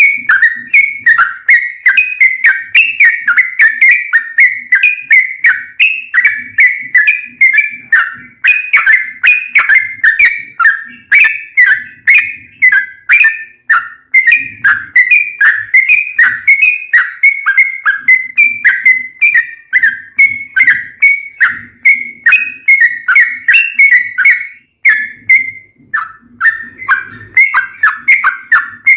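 Yellow-vented bulbul (trucukan) singing a long unbroken run of rapid bubbling notes, about three to four a second, loud, with a brief pause near the end before it carries on. The fast continuous 'ropel' delivery is the song used as a lure to make other trucuk birds answer.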